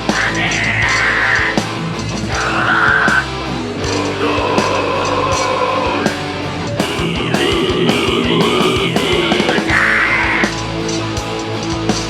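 Live heavy metal band playing loud: distorted guitars and fast drums, with harsh shouted vocals coming in at moments.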